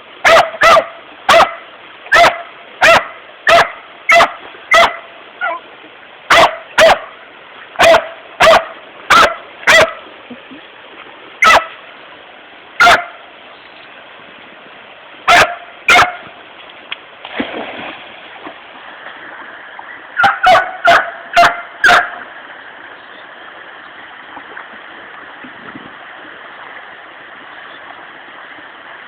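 A dog barking in short, sharp barks over the steady rush of a flooded river: a quick run of barks for about ten seconds, a few spaced-out ones, a fast run of five around twenty seconds in, then only the rushing water.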